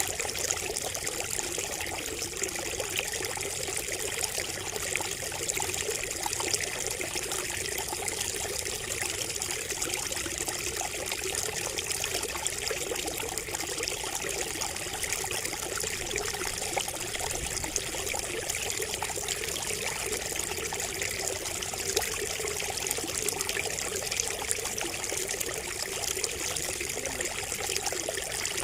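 Water trickling and splashing steadily from a bamboo spout, a continuous babble of small splashes.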